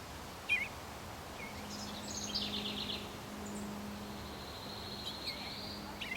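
Small birds calling: a few short chirps, a quick run of high notes about two seconds in, then a long, thin, high whistle held for a few seconds. A low steady hum runs underneath.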